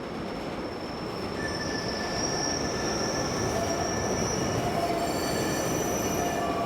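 R211 subway train running, with the rumble of the car and its wheels squealing in high, steady tones on the rails. The squeal grows louder, and more tones join in from about halfway.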